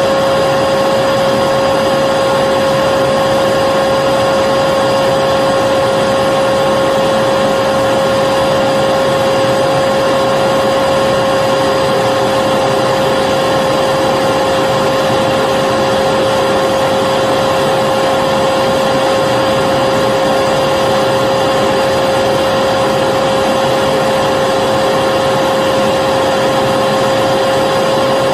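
Vacuum cleaner running continuously at a steady pitch: an even motor whine over a rushing hiss, with no change in speed.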